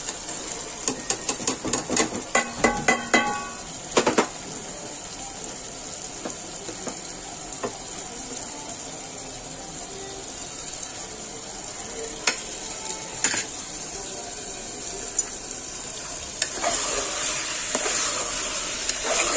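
Onion-tomato masala sizzling in a pan on the stove. About a second in, a quick run of metal clinks and taps against the pan, with a short ring, as it is stirred. The sizzle gets louder and busier near the end with more stirring.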